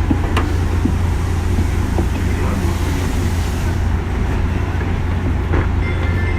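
Inside a 201 series electric commuter train: a steady low rumble as the car runs on the rails, with a few light knocks from the wheels and bogies.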